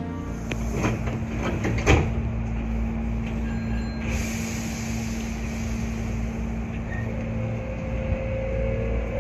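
Hankyu 8300 series electric train at rest with a steady electrical hum, a few knocks and a loud thud about two seconds in, then a faint, slightly rising whine near the end.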